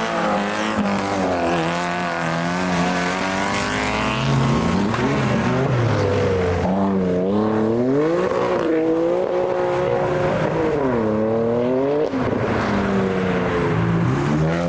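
Modified cars pulling away one after another, their engines revving up and dropping back several times as they accelerate and change gear.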